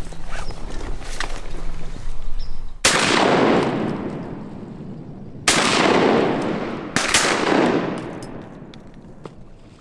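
Three shotgun shots, the second and third close together, each followed by a long echo that rolls off over a second or more.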